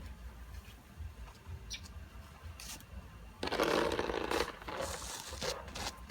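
Snow shovel scraping through snow: a loud scrape about three and a half seconds in lasting about a second, followed by lighter scraping.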